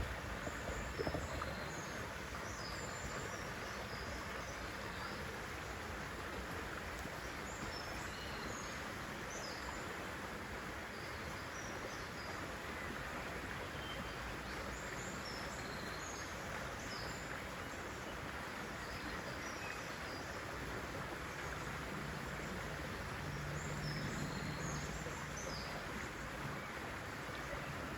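Outdoor nature ambience: small birds chirping in short high calls scattered throughout, over a steady rushing background. A faint low hum joins in near the end.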